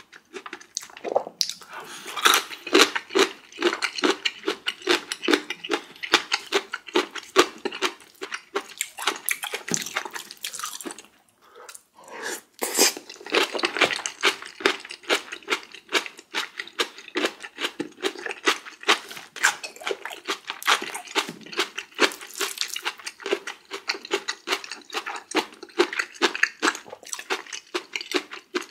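Close-miked chewing: rapid wet clicks and smacks of a mouth eating, going on steadily with a brief pause about eleven seconds in.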